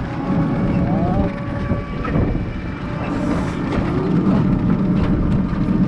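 Steady rumble of a moving tuk-tuk, with road and wind noise heard from on board.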